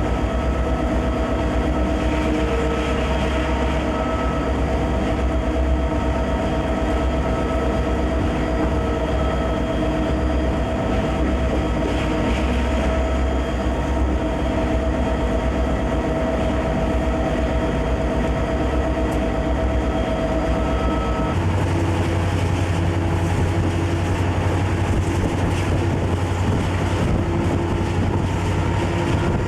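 Conrail freight train's diesel locomotive running steadily. About 21 seconds in, the engine's low drone changes pitch abruptly.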